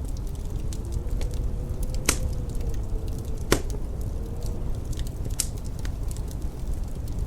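Wood fire crackling in a fireplace, with scattered small snaps and two louder pops about two and three and a half seconds in, over a low steady rumble.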